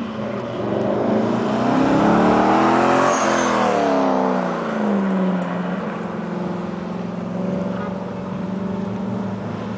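A car engine on an autocross course revs up, its pitch climbing for about three seconds. It then falls away and settles into a steady drone.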